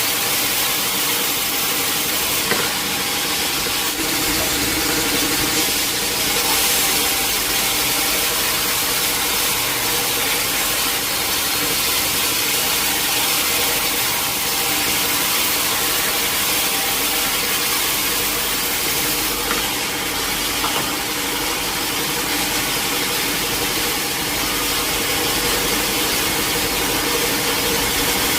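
Sawmill saw running steadily through teak wood, a continuous hiss over the steady hum of the machine.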